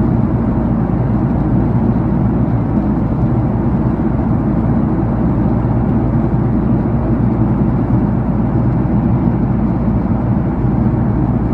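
Steady, even cabin noise of a jet airliner in flight: engine and airflow noise heard from inside the cabin, deep and unbroken.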